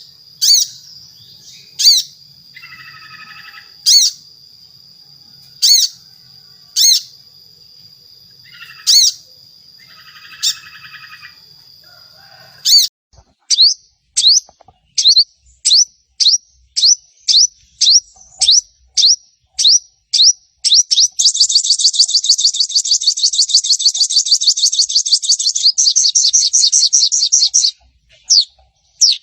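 Sunbird (sogon) song: sharp high calls spaced a second or two apart over a steady high whine, then a quickening series of calls about halfway through, breaking into a long rapid chattering trill that stops shortly before the end.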